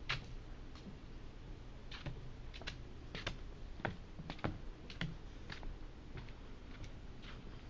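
Footsteps on the trail: irregular light clicks and crackles, one to three a second.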